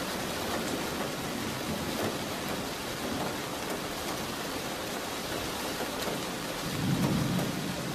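Steady rain falling, with a low rumble of thunder swelling briefly about seven seconds in.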